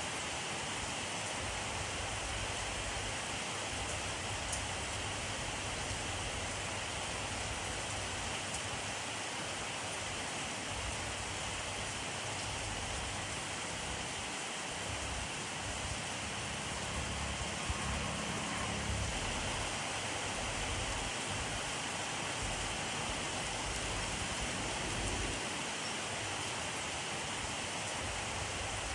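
Steady rainfall: an even hiss of rain with faint drops pattering on surfaces and some low rumble.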